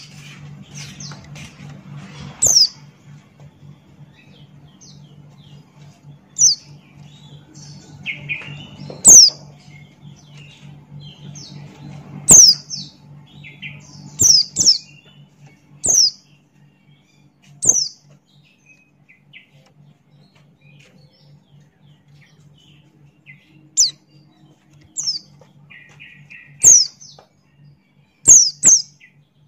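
A white-eye (pleci buxtoni) calling in sharp, high chirps that drop quickly in pitch, one every second or two, with softer twittering between. A steady low hum runs underneath.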